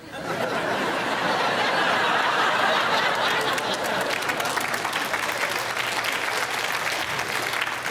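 Studio audience applauding, starting abruptly and dying away near the end.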